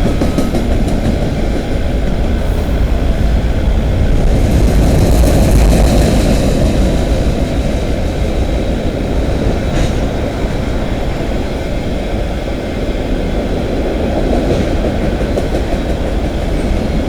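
Freight cars of a CN manifest train rolling past: a steady low rumble of steel wheels on rail, with a single sharp click about ten seconds in.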